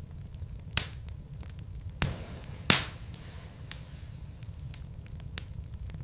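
Wood fire burning in a fireplace: logs crackling with a steady low rumble, many small ticks and three sharper pops, the loudest nearly three seconds in.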